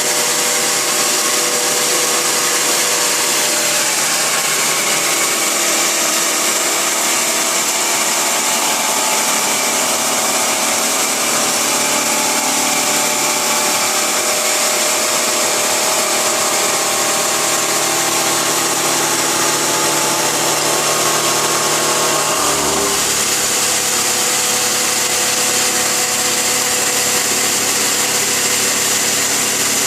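CNC milling machine cutting a steel plate: a steady, loud machining noise with a strong hiss and a whine of several steady tones. The tones change about two-thirds of the way through.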